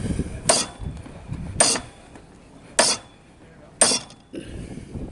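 Four sharp metal-on-metal hammer blows, about a second apart, crimping a new terminal lug onto a heavy battery cable.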